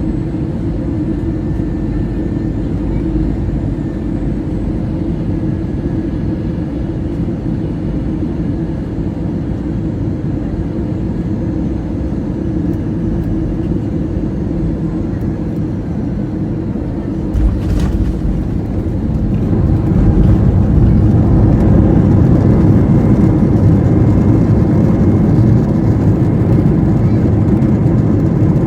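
Airliner cabin noise: a steady low rumble of engines and airflow. About two-thirds of the way through comes a sudden thump, then a louder, heavier rumble builds and holds.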